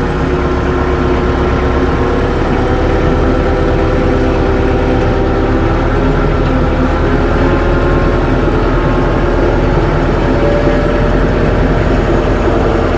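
Tractor engine running steadily, its pitch shifting slightly a few times as it takes load.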